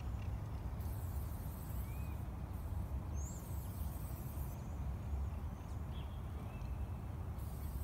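Outdoor ambience: a low, steady rumble with several short chirps from small birds. A high hiss comes and goes in stretches of a second or two.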